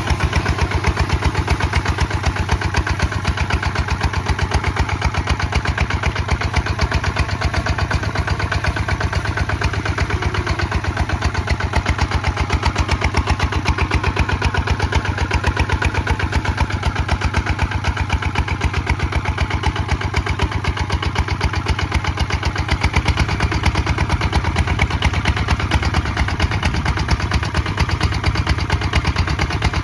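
Kubota ZT155 DI single-cylinder diesel engine running steadily, working a plow, with rapid even firing pulses. The low note gets fuller about two-thirds of the way in.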